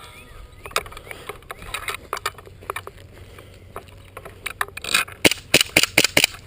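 Irregular rustling and light knocks from an airsoft rifle with a camera mounted on it being carried and handled, with a quick run of about six sharp clicks a little after five seconds in.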